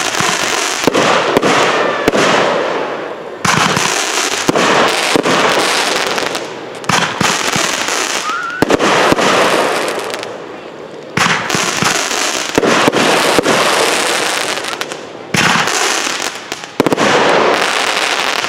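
Consumer fireworks going off: dense crackling and rapid popping in repeated waves, each starting suddenly and dying down over a second or two, with a new wave every few seconds.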